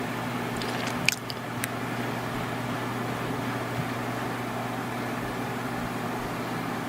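Steady low electrical hum and hiss of background noise, with a few short sharp clicks about a second in.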